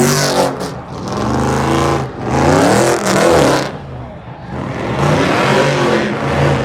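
A car engine revving loudly in repeated bursts, its pitch climbing and falling back about three times.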